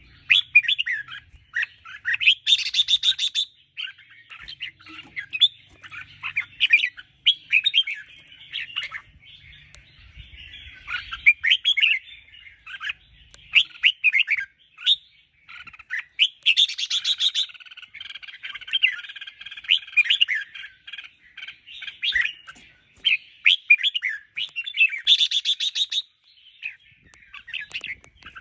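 Red-whiskered bulbuls singing a continuous run of quick, chirpy whistled phrases. Three brief harsh, rattling bursts break in, one near the start, one in the middle and one near the end.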